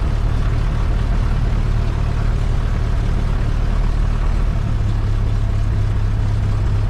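Cessna 172S Skyhawk's four-cylinder Lycoming engine and propeller running steadily at idle on the ground, a constant low drone.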